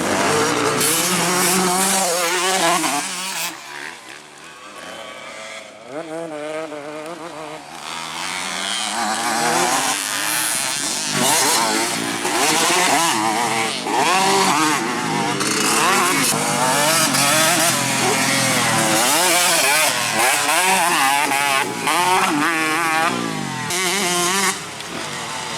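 Two-stroke motocross bikes, a Yamaha YZ125 and a Kawasaki Ninja 150, revving hard, the engine note climbing and dropping again and again as they accelerate and shift, with more than one engine heard at once. The sound fades about four seconds in, then builds back up.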